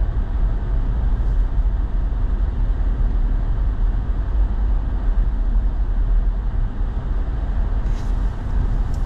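Steady engine and tyre rumble heard inside a truck's cab while driving on snow-covered roads, with a couple of faint clicks near the end.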